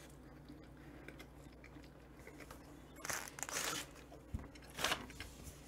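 Quiet chewing of a mouthful of sandwich, with two short crunchy bursts, one about three seconds in and a shorter one near the end.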